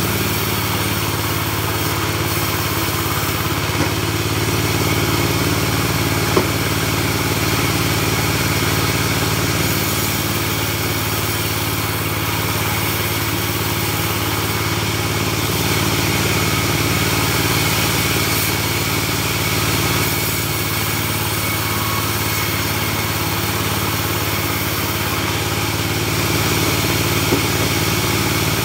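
Engine-driven portable band sawmill running steadily, with a few brief clicks.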